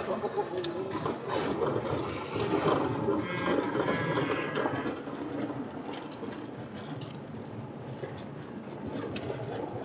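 Road noise and small rattles inside a moving car's cabin, with a dog whining briefly about three to four seconds in.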